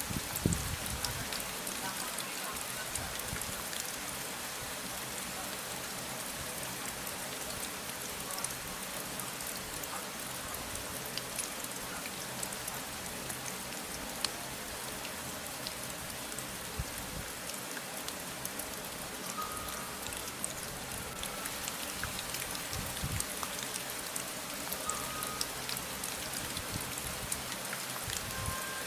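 Steady rain falling on a surface, an even patter of many fine drops, with a few soft low thumps.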